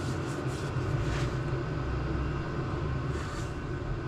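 Steady low mechanical hum, with two faint short scraping sounds, one about a second in and one a little past three seconds.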